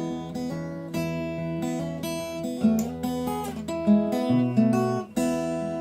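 Acoustic guitar played fingerstyle between sung verses: plucked notes and chords changing about once a second.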